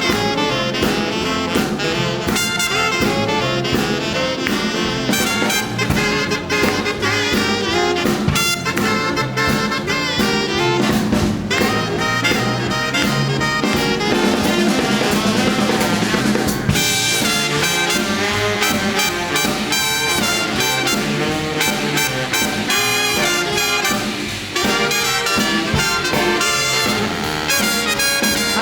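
Big band playing an instrumental chorus of a swinging boogie-woogie tune, with trumpets, trombones and saxophones over a drum kit.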